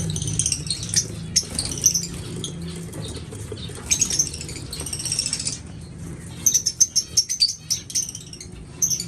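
Caged aviary birds chirping in short high bursts, with wings fluttering and quick clicks of birds moving about the cages, over a steady low hum.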